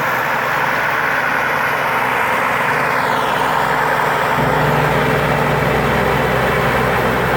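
Rice combine harvester's turbocharged Hino diesel engine running, with a dense, steady mechanical din; about four seconds in, the low rumble grows heavier.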